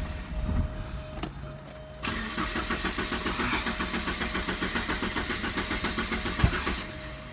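1988 Porsche 944's four-cylinder engine turning over on the starter motor in an even rhythm for about five seconds without catching: a crank-but-no-start. A steady thin whine runs underneath.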